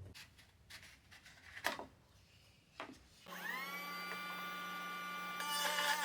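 A few light taps on wood, then a power tool's motor spins up to a steady whine about three seconds in. Near the end the whine wavers and roughens as the tool works into the wood.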